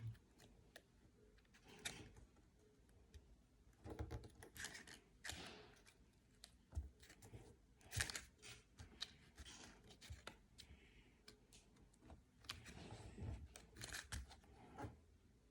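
Faint rustling and crinkling of a sheet of A4 paper being folded and creased by hand, in irregular short bursts with a few small taps.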